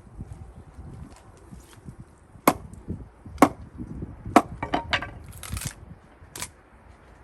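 Gränsfors Bruk axe chopping into cherry-wood rounds: four sharp cracks spread over about four seconds, with lighter knocks of wood between them.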